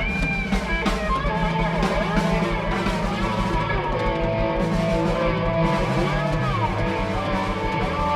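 A live rock band playing an instrumental passage: guitar with bending notes over bass and drums.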